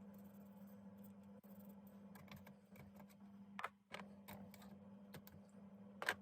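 Faint scattered clicks and taps from small die-cast model panels being handled and sanded with wet-and-dry paper, two sharper clicks about halfway and near the end, over a steady low hum.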